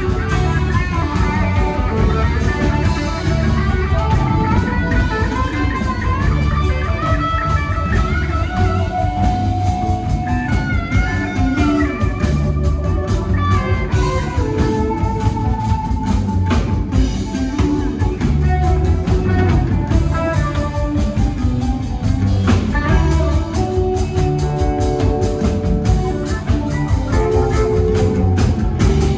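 Rock band playing an instrumental passage: a melodic electric guitar lead over bass guitar and drum kit.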